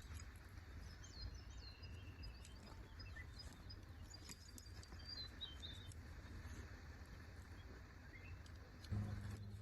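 Faint forest ambience: small birds chirping now and then, over a low steady rumble. Near the end a low steady hum starts abruptly.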